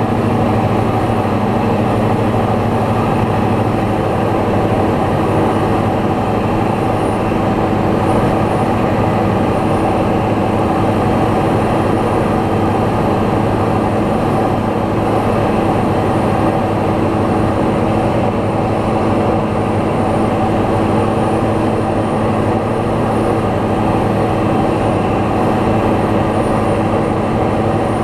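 Light aircraft's piston engine and propeller droning steadily at constant power in flight.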